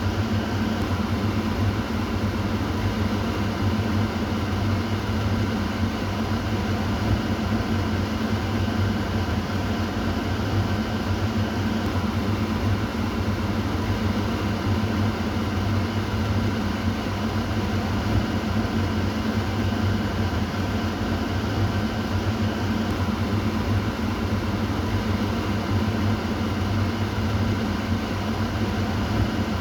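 Kitchen exhaust fan running steadily: a constant whir over a low hum, unchanging throughout.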